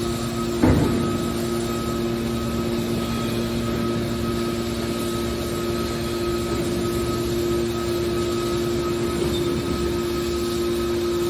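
Hydraulic metal baler running: the steady hum of its hydraulic power unit, with one sharp knock a little under a second in.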